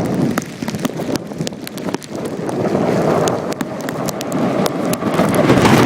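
Storm wind gusting across the microphone, swelling and easing over a few seconds, with many scattered sharp ticks from rain striking it.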